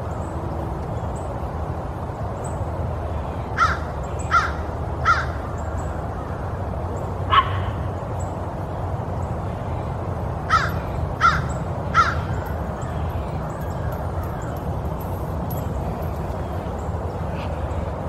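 A bird calling in short single calls: three in quick succession, a lone call a couple of seconds later, then three more, over a steady low background rumble.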